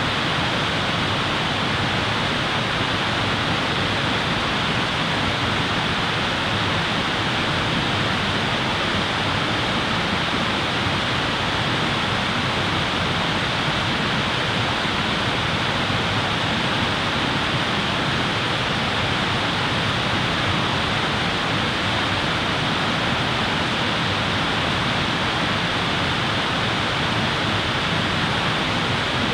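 Steady, even rushing noise that never changes in level, with no crackles or pops standing out.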